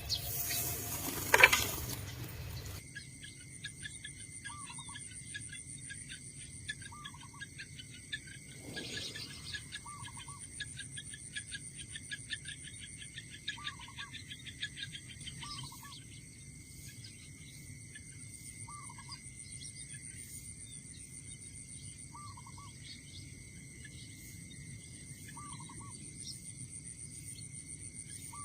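Insects shrilling steadily with a short bird call repeated about every two to three seconds, and a spell of fast ticking insect trill in the middle. A loud rushing noise fills the first three seconds and then stops suddenly.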